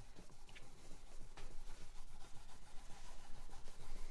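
A cloth rubbing along an acoustic guitar's fretboard, wiping off treatment that has been left to soak in, with a couple of faint knocks.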